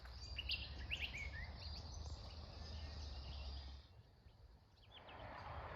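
Birds chirping outdoors with short, quick high calls in the first second and a half, over a low steady hum that stops about four seconds in. After a brief lull an even hiss of outdoor noise comes in near the end.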